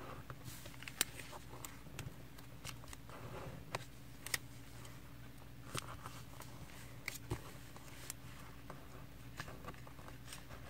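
Sheet of origami paper rustling and crinkling as it is folded and creased by hand, with scattered small clicks and taps.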